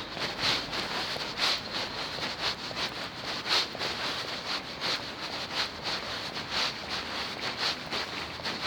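Footsteps of someone walking, about two steps a second, over a steady background hiss.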